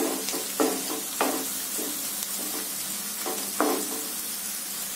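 Onions, green chillies and whole dried red chillies sizzling in hot oil in a kadhai, stirred with a wooden spatula: a steady frying hiss with a few louder scrapes of the spatula across the pan.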